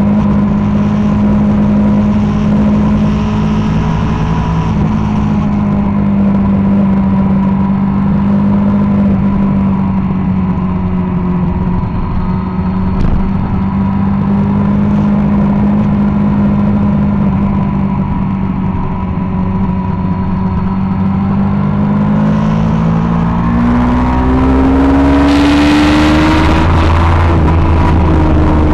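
BMW S1000RR's inline-four engine running at speed, its note sagging slowly as the bike eases off. In the last several seconds it climbs in pitch under hard acceleration and then levels off, as loud wind rush builds.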